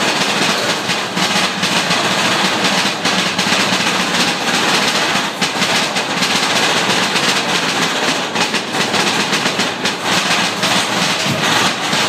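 Mine-train roller coaster running along its track, heard from on board: a steady, loud rattle and clatter of the cars and wheels, with a rush of noise throughout.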